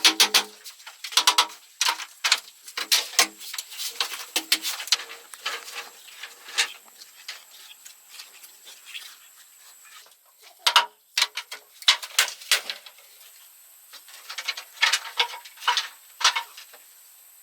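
Irregular sharp taps and knocks, some with a short ringing tone, coming in clusters with a quieter stretch about seven to ten seconds in.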